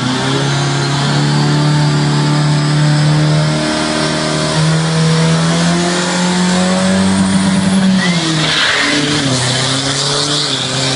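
Drag-racing pickup truck's engine at full throttle on an eighth-mile drag strip. Its pitch climbs steadily with a brief break for a gear change about 4 seconds in, then drops away near 8 seconds in as the driver lifts off after the run.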